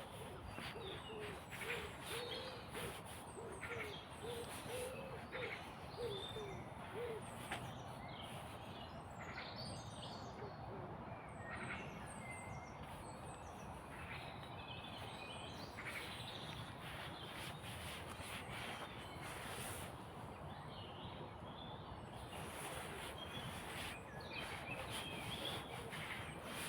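Woodland birds chirping and twittering, with a run of about a dozen short, low, hoot-like notes over the first seven seconds.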